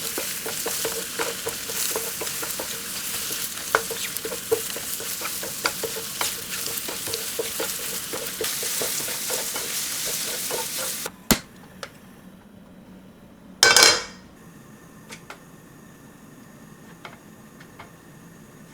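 Food sizzling in a frying pan while being stirred, the utensil clicking repeatedly against the pan. About eleven seconds in the sizzle stops with a sharp knock. A short loud burst of noise follows a couple of seconds later, then only a few faint ticks.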